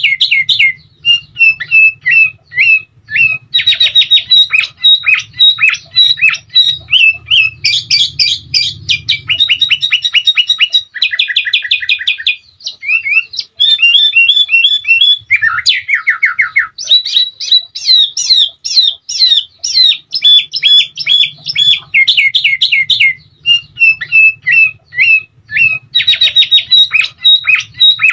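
Sooty-headed bulbul (kutilang) singing hard and without a break: fast runs of sharp chirps and rattling trills, the sound used as master song to set other birds singing. A faint low hum sits underneath at times.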